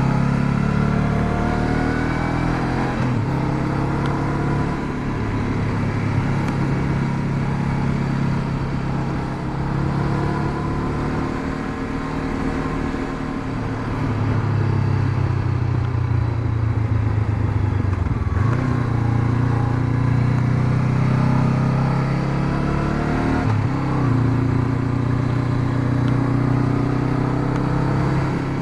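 Honda CB500X motorcycle's parallel-twin engine running while riding, its pitch rising and falling with the throttle, with brief breaks in the engine note a few times.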